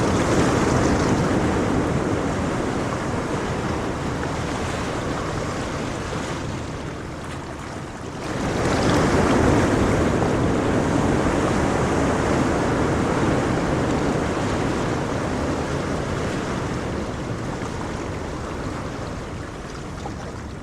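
Calm ocean surf: waves rushing in and washing back. One wave is at its peak at the start and eases off; a second wave surges in about eight seconds in and slowly dies away.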